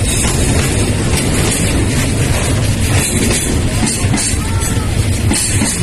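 Railway cars rolling past close by: a loud, steady rumble of wheels on rail with clattering over the joints, and a faint wheel squeal about four and a half seconds in.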